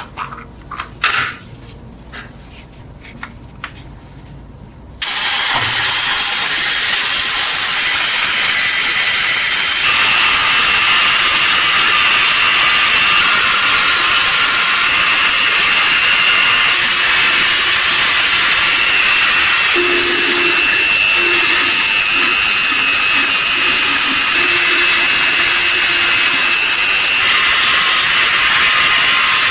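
A few sharp knocks and taps, then about five seconds in an electric power tool switches on and runs steadily: a loud, high grinding hiss with a faint whine, typical of sanding or grinding during metal restoration.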